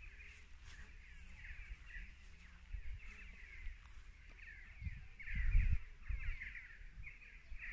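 Birds chattering continuously, many short squeaky calls overlapping one another. A low rumble on the microphone comes and goes and is loudest about five and a half seconds in.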